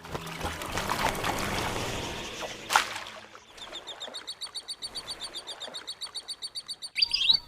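Wild birds calling: a dense, noisy chatter with scattered clicks for about three seconds, then a rapid, even trill of high chirps, about nine or ten a second.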